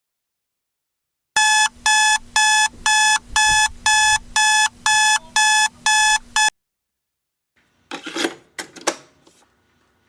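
Electronic alarm beeping in a quick even series, about two beeps a second, starting about a second in and cutting off suddenly after about five seconds; a few short knocks or rustles follow.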